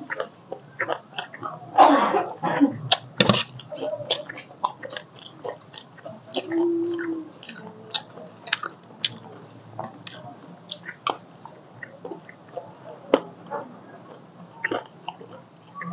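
Close-miked crunchy chewing of chatpate, a spiced puffed-rice snack, with many short crackles as mouthfuls are bitten and chewed, loudest about two to three seconds in. A metal spoon scrapes and clicks on the plate between bites.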